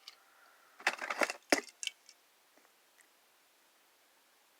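Die-cast toy car being handled: a quick cluster of small hard clicks and rattles about a second in, then a few lighter ticks.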